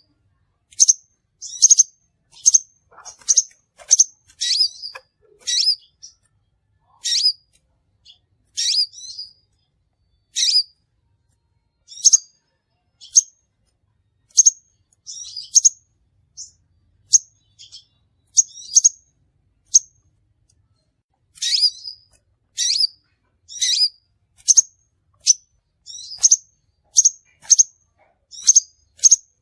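Crimson sunbird calling with short, sharp, high chirps, singly or in quick pairs, about one every second with brief pauses between runs.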